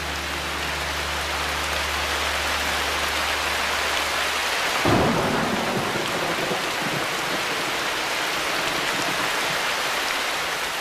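Heavy rain falling steadily, with a single thunderclap about five seconds in.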